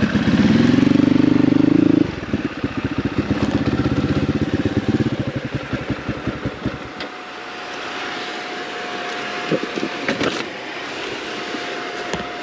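Dirt bike engine held at a steady rev for about two seconds, then dropping to a putter that slows and fades about seven seconds in. After that comes a quieter steady hum with a thin whine and a few sharp clicks.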